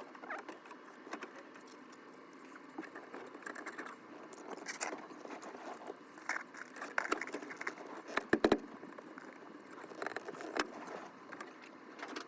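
Irregular clicks and metallic rattles of small metal parts or tools being handled, with a louder cluster of sharp knocks about eight seconds in.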